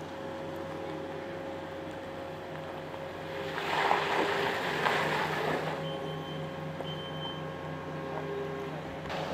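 Steady idling hum of vehicle engines. About three and a half seconds in, a louder rushing noise swells for roughly two seconds, like a vehicle going by on a wet road.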